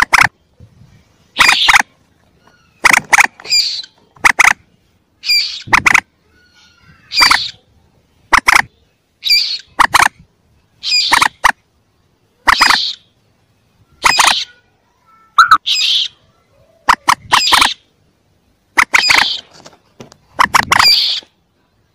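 Recorded calls of a young mandar (common moorhen), played as a hunting lure: short, sharp calls repeated about every second and a half, often as a quick pair.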